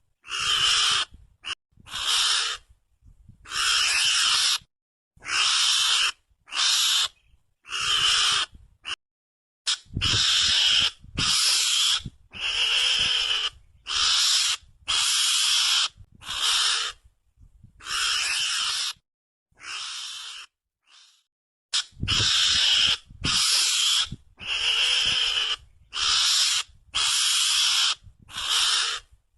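Mongoose (garangan) calls played as a hunting lure: a run of harsh, high, noisy squeals, each lasting under a second or so, repeated roughly once a second with short silent gaps between them.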